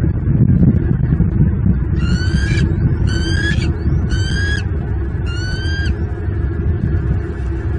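A bird calls four times, about a second apart, each call a short note rising slightly in pitch, over a steady low rumble.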